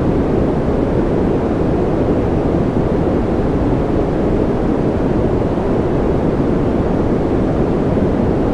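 Continuous white noise for infant sleep: a steady, unbroken rush, deep and soft rather than hissy, with no rhythm or change.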